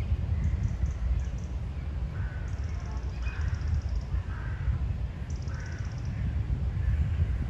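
Wind rumbling on the microphone under birds calling outdoors: harsher calls in the middle, and a high, rapid trill of about a second that comes back roughly every three seconds.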